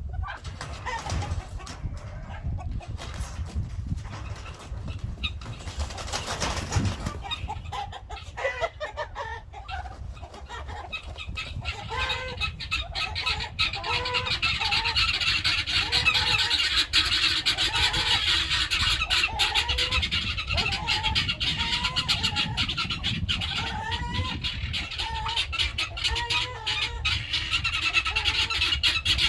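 Turkeys calling in a pen, short repeated calls about twice a second starting about twelve seconds in, over scuffling knocks and rustling in the first part.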